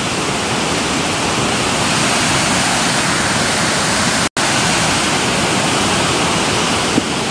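New Haven River in flood pouring over Bartlett's Falls: a steady, loud rush of whitewater, swollen by Hurricane Irene's rain. The sound drops out very briefly once about four seconds in.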